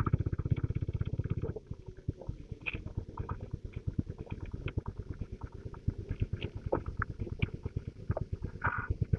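TVS Apache RTR 160 4V's single-cylinder engine idling with an even low pulse, a little louder for about the first second and a half and then settling.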